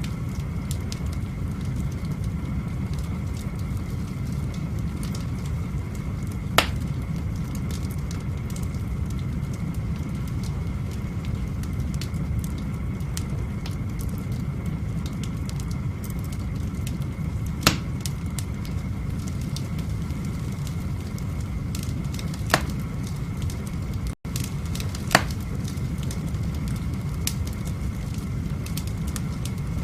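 Wood fire burning in a fireplace: a steady low rumble with scattered small crackles and four sharp louder pops spread through it.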